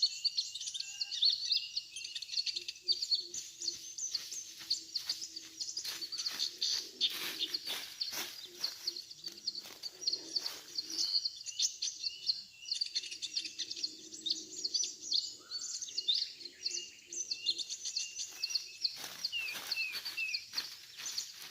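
Sunbirds (kolibri ninja, Van Hasselt's sunbird) giving rapid, high, continuous chirping and twittering calls, used to lure wild birds down to a birdlime trap.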